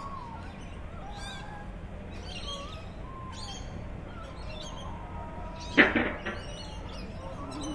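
Small birds chirping repeatedly in short calls over a steady low background hum, with one sharp knock about six seconds in.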